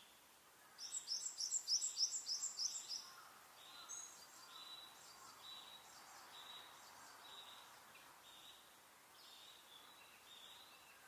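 Birds singing: about a second in, a loud quick run of high chirps, about five a second, lasting some two seconds, followed by softer short notes repeated every half second or so.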